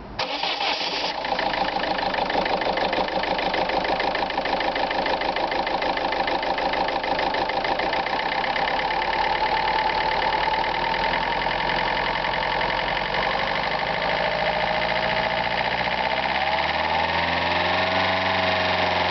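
Peugeot-Citroën 1.4 HDi DW4TD four-cylinder turbodiesel starting: a short burst of cranking, it catches within about a second, then idles steadily. About sixteen seconds in, the idle note shifts as the speed settles.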